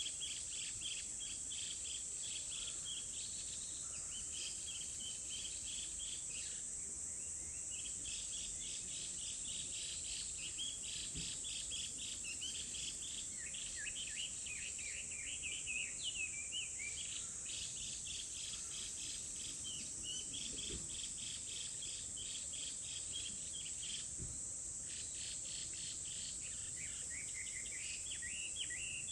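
Outdoor nature ambience: a steady high-pitched insect drone under trains of rapid repeated chirps, with birds singing in short sweeping phrases about halfway through and again near the end.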